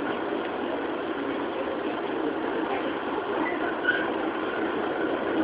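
Interior running sound of a JR 205 series electric train's motor car: a steady rumble of wheels and traction gear as the train runs at speed.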